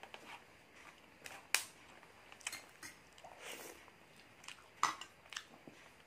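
Close-up eating sounds: chewing and biting, with scattered sharp clicks and taps, the loudest about a second and a half in and again near five seconds.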